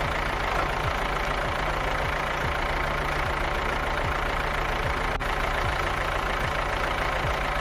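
Tractor diesel engine running steadily at a low, even pace as the tractor drives along, with one faint click about five seconds in.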